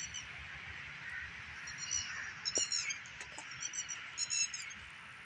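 Chukar partridges calling: short clusters of quick, high notes repeated every second or so.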